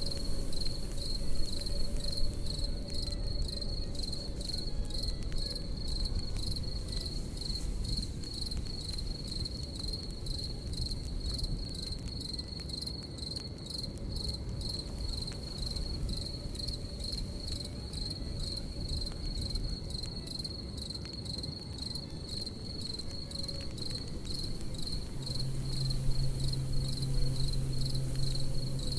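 Crickets chirping in a steady, high, pulsing trill over the low rumble and irregular crackle of a campfire. A low steady hum joins near the end.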